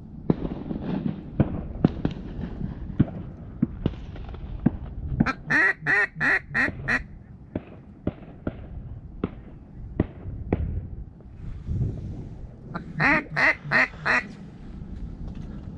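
Duck quacking in two runs of about six quick, mallard-style quacks each, one in the middle and one near the end. Sharp cracks of shotgun fire from other hunters are scattered throughout, the loudest of them louder than the quacks.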